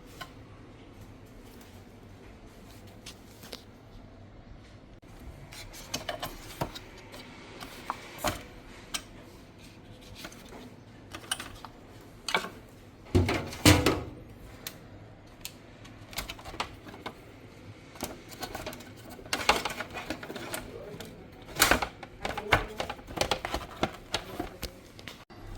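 Irregular clicks, taps and knocks of plastic and metal parts being handled and fitted by hand during a fridge fan motor replacement. They grow busier and louder in the second half, with the loudest knocks about halfway through.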